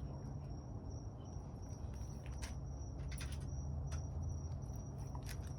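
A steady high-pitched insect trill runs over a constant low rumble, with a few faint scattered clicks.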